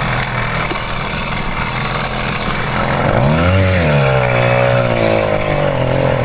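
Small 66cc two-stroke motorized-bicycle engine running, revving up about three seconds in and then easing back down to a steady pace.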